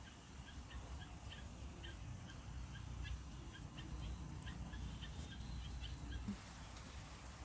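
A bird chirping over and over, short high chirps two or three a second, that stop about six seconds in, over a steady low rumble.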